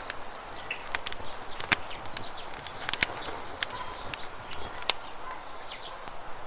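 Campfire crackling, with irregular sharp pops, over a steady rush of flowing river water. Short high bird chirps come through now and then.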